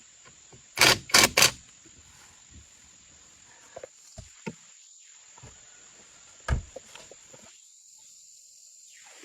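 Three sharp knocks in quick succession about a second in, a single knock past the middle, and scattered light clicks, all over a steady high-pitched hiss.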